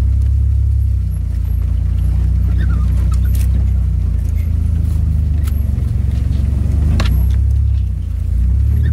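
AWD minivan's engine droning steadily at low trail speed, heard inside the cabin, with a few sharp clicks and rattles along the way. The engine eases off briefly near the end.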